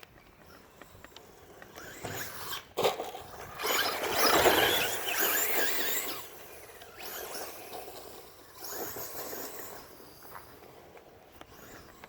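Traxxas Rustler VXL electric RC truck running on rough ground, with noisy passes of tire and motor sound. There is a sharp knock about three seconds in, the loudest pass comes a second or two later, and a shorter one follows near nine seconds.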